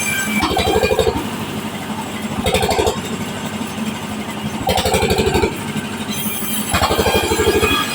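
Bandsaw running steadily while its blade cuts waru wood in short passes, the cutting noise swelling and falling back about every two seconds, four times.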